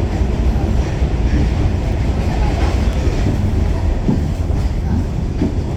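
Pullman Standard R46 subway car running at speed: a steady low rumble of wheels on rail, with a few wheel clicks over rail joints in the second half.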